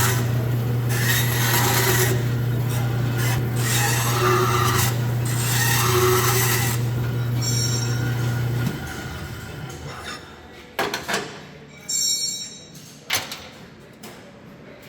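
A stationary shop machine's motor hums steadily while metal is pressed against it in repeated strokes of about a second each, giving a rasping, grinding noise. About nine seconds in, the machine is switched off and runs down, and a few short knocks follow.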